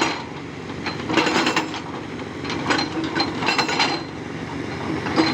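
Hydraulic rock breaker on a Tata Hitachi 200 excavator working rock in short bursts of sharp knocks and metallic clinks, with the excavator's engine running steadily underneath.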